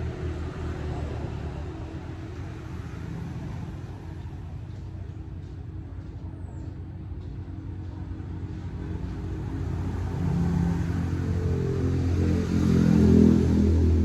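Motorcycle engine running steadily, growing louder over the last few seconds.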